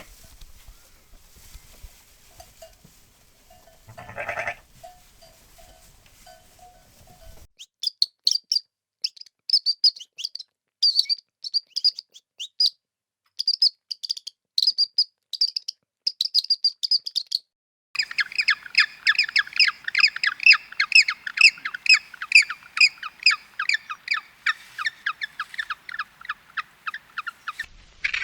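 A single short bleat from a farm animal about four seconds in, then a series of quick high-pitched bird chirps in irregular groups, then a long dense run of very rapid bird calls.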